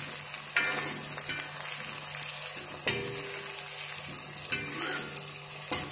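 Khimpoli and chopped green chilli sizzling in hot mustard oil in a steel kadhai, stirred with a steel ladle that scrapes and knocks against the pan about five times.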